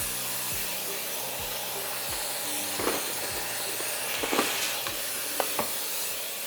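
Steady hissing noise with scattered clicks and knocks.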